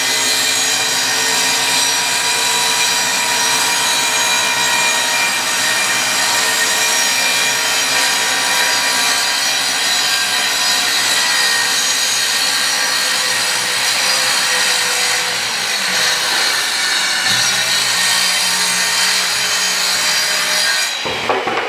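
Electric power saw running and cutting wood, a loud steady whine that holds its pitch through a long cut. It drops off sharply near the end.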